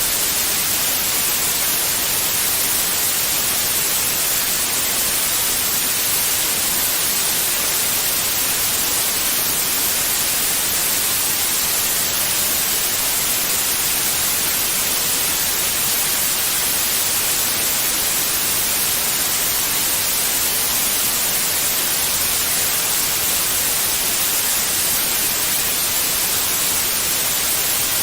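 Steady white noise: an even, unchanging hiss with the most energy in the high frequencies, played as a soothing sound for babies.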